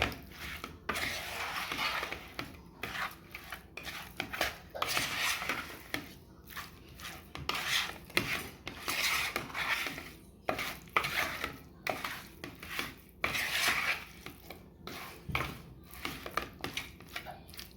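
Raw chicken wings being mixed with oil and spices in a bowl: irregular scraping and clattering of the bowl and utensils, with sharp knocks now and then.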